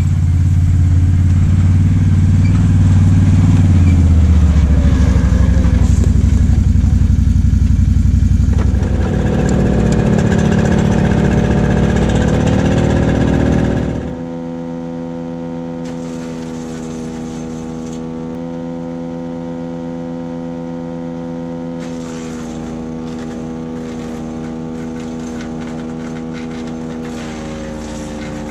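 Split-Fire 4090 wood chipper's Honda GXV390 single-cylinder engine running. It is loud and rough at first, then about fourteen seconds in it drops suddenly to a quieter, steady-pitched running that holds to the end.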